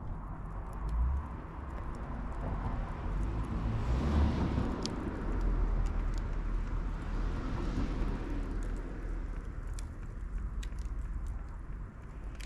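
Firewood campfire crackling, with scattered sharp pops, over a low rumble. A broad rushing noise swells up about four seconds in and again about eight seconds in.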